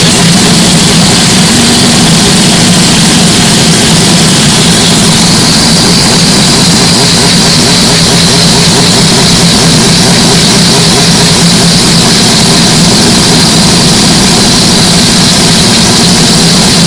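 Mazda 767B's four-rotor Wankel engine running steadily at an even speed, with no revving up or down. The recording is boosted to the point of distortion.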